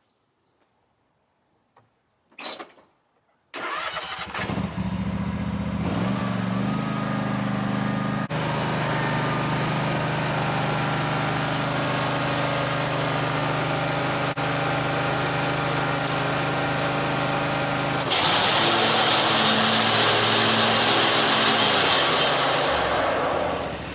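A small petrol engine starts about three and a half seconds in and runs steadily. About 18 seconds in, a loud harsh hiss joins it for around five seconds as the thick steel bar is cut, and the engine note shifts under the load.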